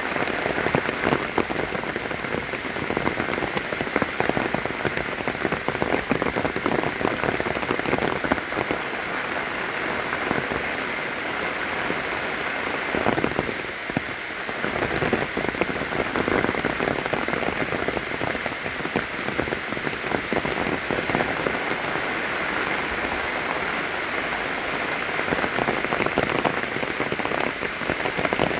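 Steady rain falling, a dense even hiss made up of many individual drop hits.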